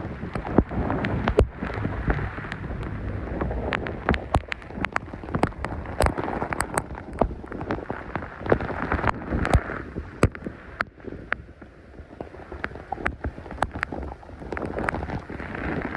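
Heavy hurricane rain with gusting wind: a steady rush of rain, wind rumbling on the microphone and rising and falling in gusts, and many sharp taps of drops striking close by. The wind eases briefly past the middle before picking up again.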